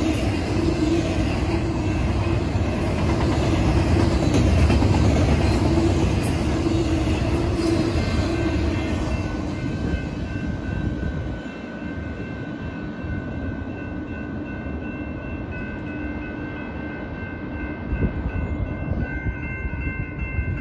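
Union Pacific double-stack container train rolling past on the rails, its rumble easing about eleven seconds in as the last cars go by. A railroad crossing bell rings steadily from about eight seconds in.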